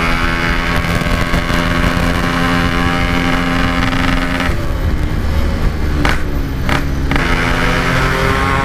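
Yamaha RX-King's two-stroke single-cylinder engine running at speed under the rider, its note held steady, then easing off about halfway with two short sharp sounds, and picking up again near the end. A steady wind rumble on the microphone runs under it.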